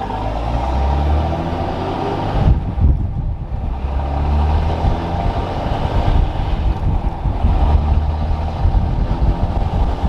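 2006 Dodge Ram's 5.9-litre Cummins inline-six turbo diesel accelerating under load through the gears of its six-speed manual. The engine note climbs, drops at a gear change about two and a half seconds in, then climbs again.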